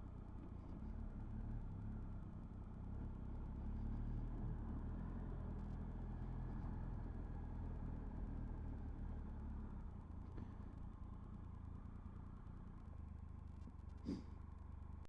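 Motorcycle engine running steadily and fairly quietly, a low even drone, with a short click near the end.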